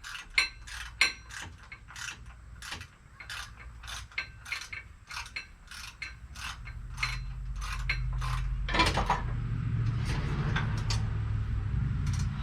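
Hand ratchet wrench clicking steadily, about three clicks a second, as a bolt is backed out. In the last few seconds a steady low hum builds and takes over.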